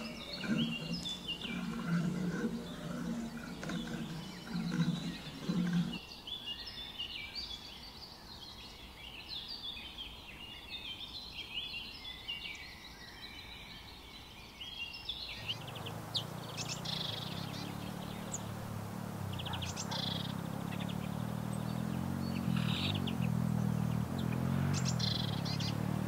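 A flock of small birds chirping busily. About two-thirds of the way in, a low, wavering cooing of doves takes over, with scattered chirps above it.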